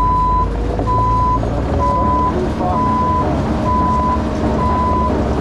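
Rented excavator's diesel engine running under a travel or back-up alarm that beeps steadily about once a second, each beep a single high tone about half a second long.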